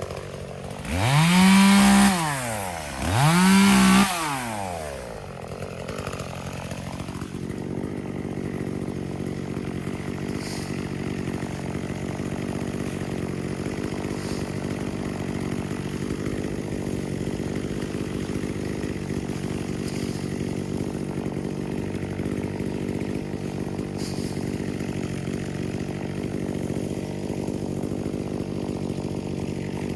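Two-stroke chainsaw revved up to full throttle twice in quick succession, each rev lasting a couple of seconds. After that comes a steady engine drone.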